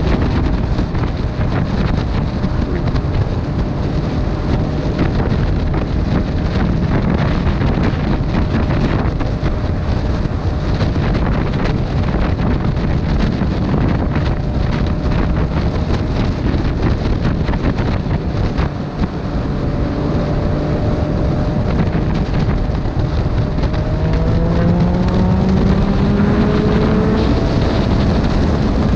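Motorcycle riding at speed, heavy wind buffeting the microphone over a steady engine note; about three-quarters of the way through, the engine note climbs as the bike accelerates.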